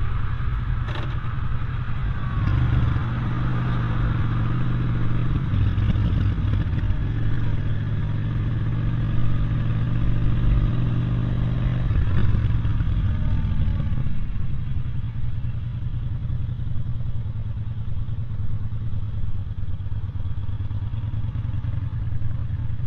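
Traffic: a vehicle engine running close by with a steady hum, fading away about twelve seconds in, over a constant low rumble.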